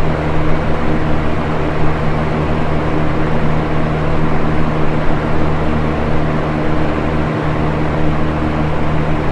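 Electric box fan running steadily: an even rush of air over a constant low motor hum.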